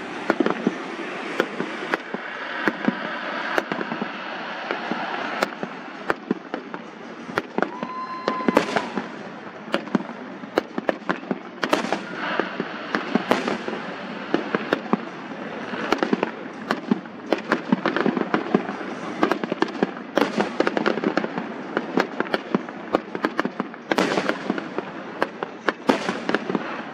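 Fireworks display: a continuous crackle with many sharp bangs, several louder booms echoing away, and a brief steady tone about eight seconds in.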